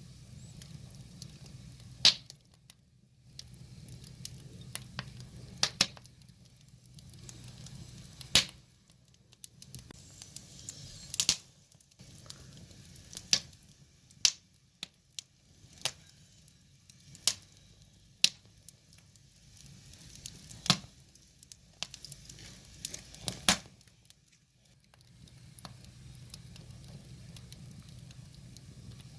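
Wood fire burning: firewood crackling with irregular sharp pops every second or two, over a low steady rumble of the flames that fades out now and then.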